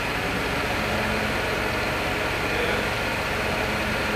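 A steady machine drone, like an engine or motor running at a constant idle, with no change in pitch or level.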